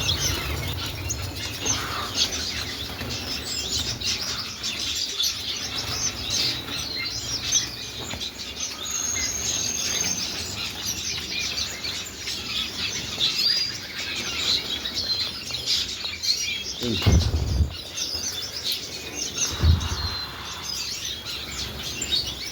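Many caged finches and other small cage birds chirping and twittering at once, a dense chorus of short high calls. Two dull thumps sound about three-quarters of the way through.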